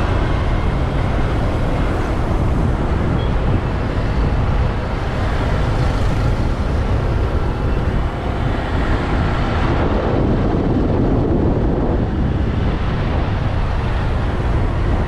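Wind rushing over the microphone on a moving motorbike, with the motorbike and traffic running underneath; a loud, steady rumble with no break.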